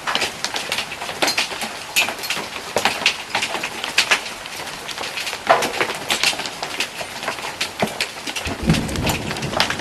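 Golf ball-sized hailstones pelting the ground and surfaces in a dense, irregular clatter of sharp impacts over the hiss of rain. A low rumble comes in near the end.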